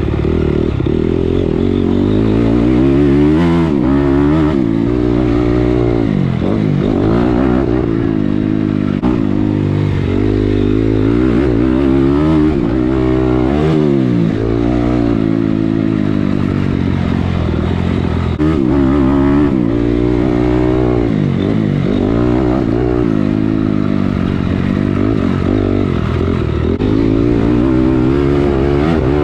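Motocross dirt bike engine ridden hard around the track, revving up and dropping back again and again as the throttle is opened and shut through the corners and jumps.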